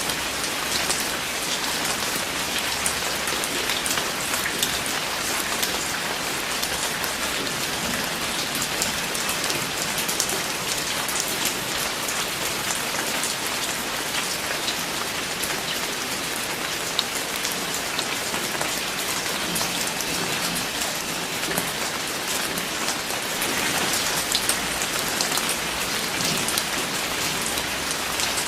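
Steady rain falling and pattering on a surface, with many individual drops heard as fine ticks.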